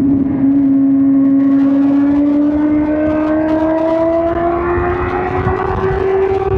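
2005 Suzuki GSX-R1000 K5's inline-four engine running under way, its pitch rising slowly and steadily as the bike gains revs.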